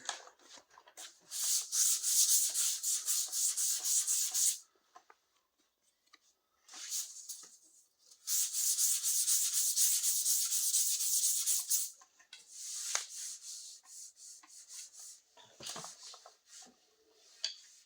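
Hand sanding or scuffing on a car's sheet-metal body panel: two long spells of quick back-and-forth abrasive strokes, each about three to four seconds, then lighter scattered scraping.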